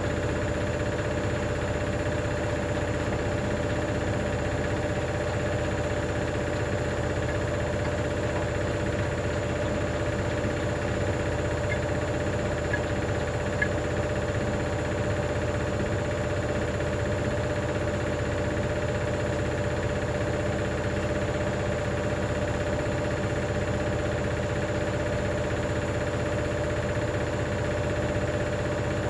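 Hoover DynamicNext DXOA410C3 washing machine spinning at a steady speed, its motor and drum giving a constant hum with a rattle. The rattle comes from a £1 coin lodged under the heating element, as the uploader believes.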